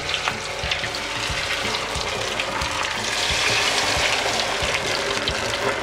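Chicken thigh pieces in flour-and-water batter deep-frying in hot oil: a steady sizzle with scattered small crackles, swelling a little about three seconds in.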